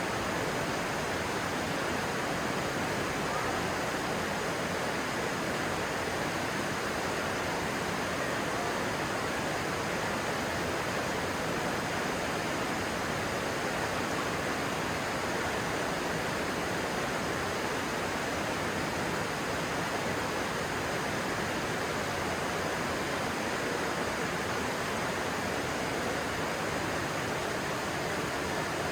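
Stream water rushing steadily over stones, an even, unbroken noise.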